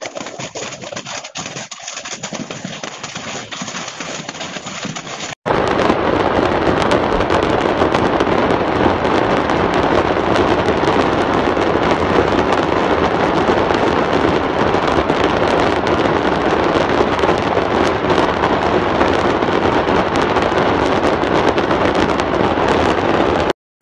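Fireworks stock going off inside a burning fireworks factory: a dense, continuous crackle of many small bangs, starting suddenly about five seconds in and running on steadily.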